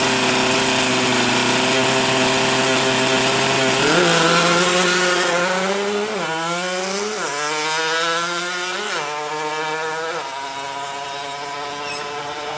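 Yamaha RX-King two-stroke motorcycle engine held at a steady high rev, then pulling harder about four seconds in, its pitch climbing and dropping back suddenly three times as at upshifts, before settling to a steadier, slightly quieter note. The bike is fitted with a small lightweight magneto rotor.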